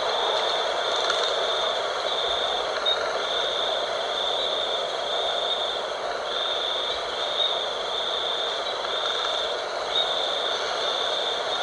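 Steady night wind with a high, thin insect trill that pulses on and off about once a second.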